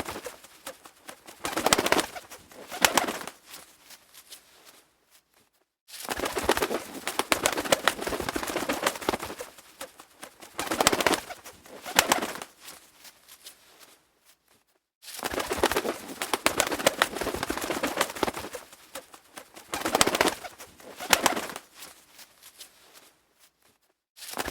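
Birds calling in repeated bursts, the calls coming in clusters separated by short silent gaps about every nine seconds.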